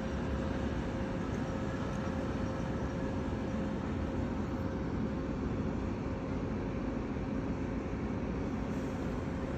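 Steady low rumble of an industrial engine or motor running continuously, with a steady whine held over it.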